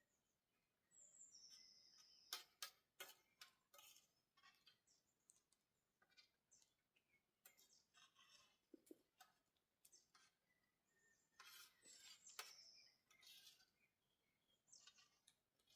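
Faint, scattered light clicks and clinks, with a few short high chirps twice, near the start and about twelve seconds in.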